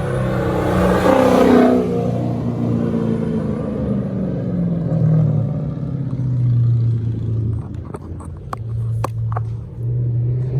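Car engine running at low revs, with a louder rev about a second in that falls away. A few sharp clicks near the end.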